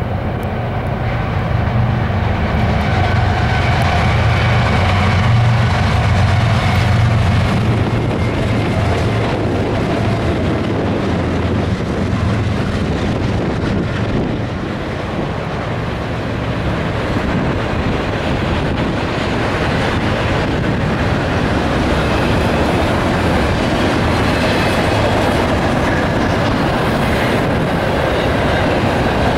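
CSX freight train passing: the diesel locomotives' engines give a strong low drone in the first several seconds, which gives way to the steady rolling noise of the intermodal well cars' wheels on the rails.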